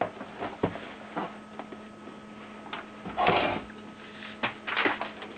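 Hands handling plastic ink cartridges and their ink supply tubes: a few light plastic clicks and two short rustles, over a steady low hum.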